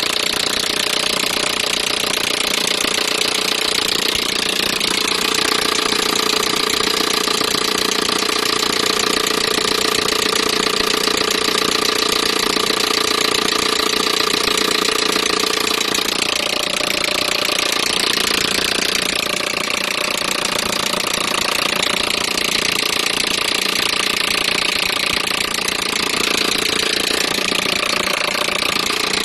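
Peugeot 307 1.6 petrol four-cylinder engine running steadily, its pitch shifting slightly a few times.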